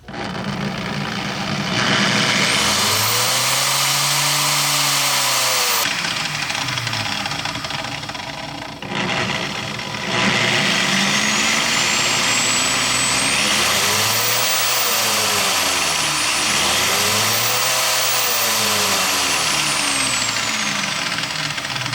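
Corded power tool's electric motor running under a triac speed controller, its speed swept up and down several times so that its whine climbs and falls. It eases off briefly about six and nine seconds in, then rises and falls twice more.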